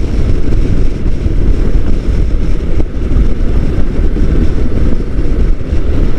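Wind rumbling on the helmet microphone of a motorcycle riding at speed, with the bike's running noise underneath.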